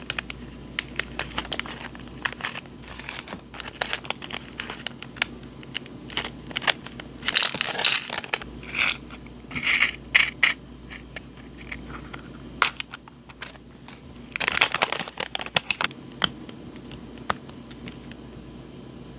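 Paper journaling supplies being handled: crinkling and rustling with many small crisp taps, and a few louder rustles partway through.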